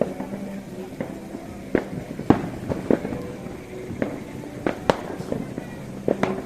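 New Year's Eve fireworks going off all around: irregular sharp bangs and pops, roughly one or two a second, over a continuous background of more distant explosions.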